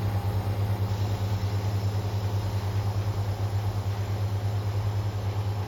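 A large engine running steadily at constant speed, with an even low drone that does not change in pitch or level.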